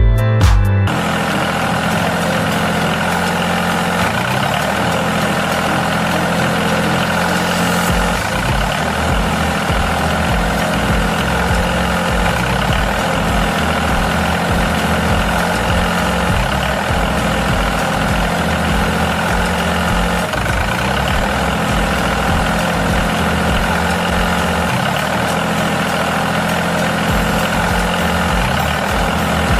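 An engine running steadily at idle, with a low, even throb.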